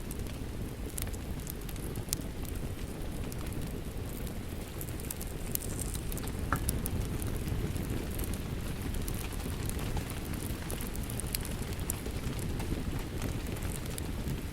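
Wood fire crackling in a fireplace, with scattered sharp pops and snaps, over the steady hiss and patter of rain falling outside.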